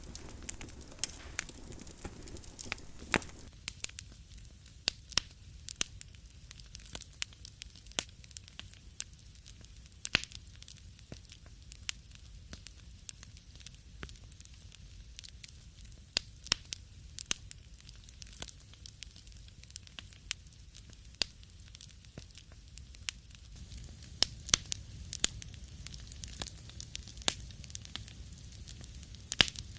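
Fire burning in a fireplace, crackling with irregular sharp pops and snaps over a low steady rumble; the background changes abruptly a few seconds in and again near the end.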